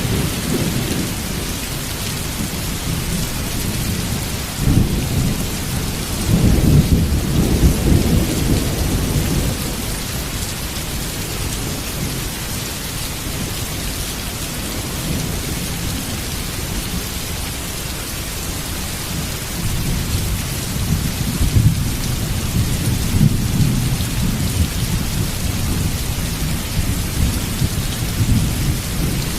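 Heavy rain falling steadily, with low rumbles of thunder rolling in twice, about five seconds in and again past the twenty-second mark.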